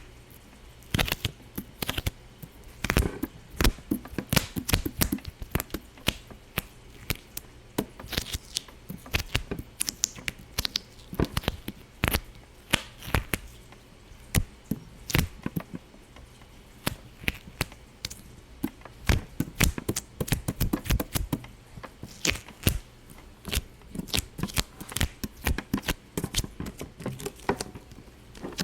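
Irregular sharp popping, several pops a second, uneven in loudness, some pops in quick clusters.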